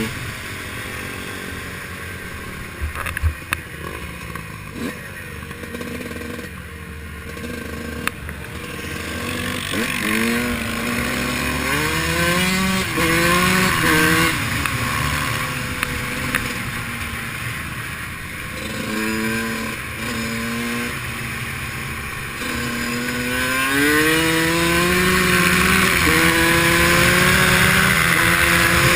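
Dirt bike engine revving and pulling up through the gears again and again, its note climbing and dropping back, with a longer climb in the last few seconds. Wind and gravel rush grow louder as speed builds, and a few sharp knocks come a few seconds in.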